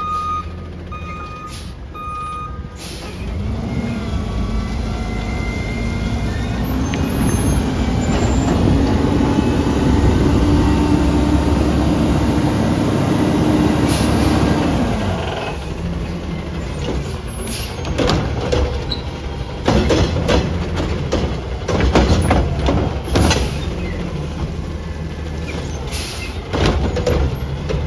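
Recycling garbage truck: its reversing alarm beeps for the first couple of seconds, then the diesel engine revs up and holds a higher pitch for about ten seconds before dropping back, with a brief hiss near the end of the rev. Through the second half come a run of sharp clanks and knocks.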